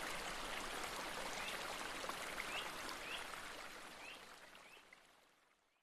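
Steady rainfall, with a few short rising chirps over it. The sound fades out gradually and is gone about five seconds in.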